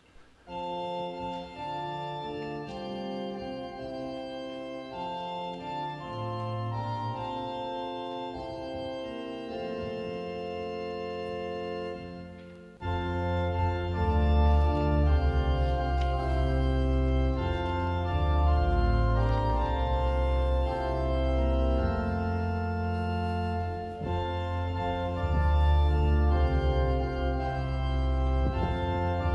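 Church organ playing a slow offertory in held chords. About halfway through, deep bass notes come in and the music gets noticeably louder.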